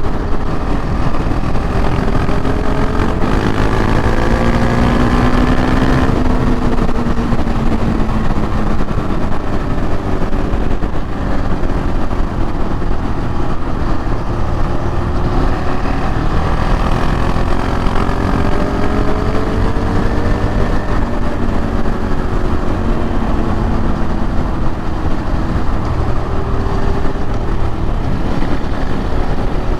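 Single-cylinder KTM 690 Duke R motorcycle engine under way. Its pitch rises and falls several times as the throttle is opened and closed through the gears, over a steady rush of riding noise.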